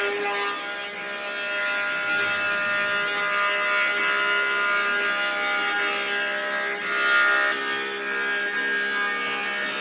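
A small electric power tool running steadily with a constant whine, working on wood.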